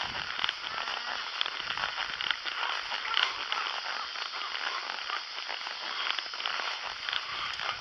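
Brush and dry twigs rustling and crackling steadily, with many small snaps.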